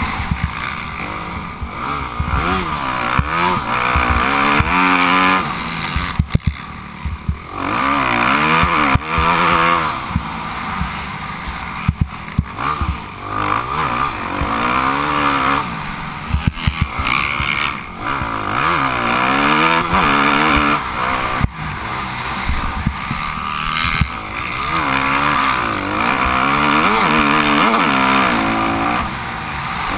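Motocross bike engine revving up and dropping off again and again as it is ridden, its pitch climbing and falling with the throttle and gear changes. Wind rushes over the microphone, with a few sharp knocks and clatters from the ride.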